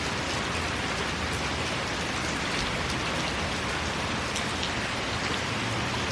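Heavy rain pouring down steadily, with faint scattered clicks of individual drops landing close by.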